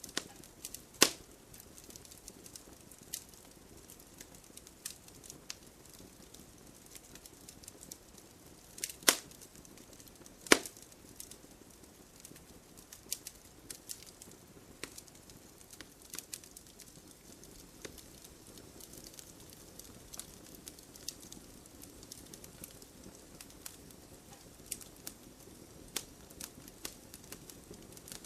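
Wood campfire crackling: scattered small pops and ticks over a soft steady rush of the flames, with three louder, sharper pops, one about a second in and two close together about a third of the way through.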